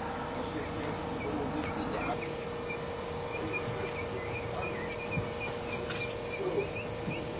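Small birds chirping in quick repeated notes over a steady hum.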